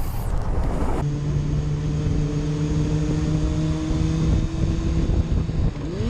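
A vehicle engine running at a steady pitch over wind noise on the microphone, dropping away about five seconds in.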